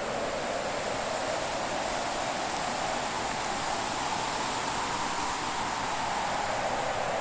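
Fireplace ambience: a steady rushing hiss of the fire with a couple of faint crackles.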